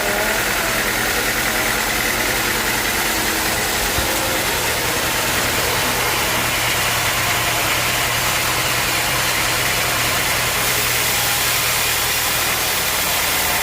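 Sawmill machinery running: a steady engine hum with an even hiss over it that does not change.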